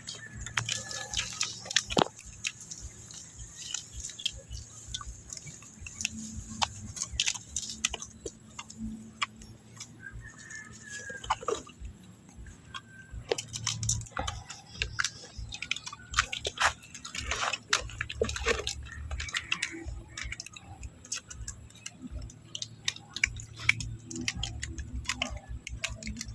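Scattered small clicks and crackles of someone eating tamarind, with the brittle pods being handled and broken and the fruit chewed. About ten seconds in there is one short, falling squeal.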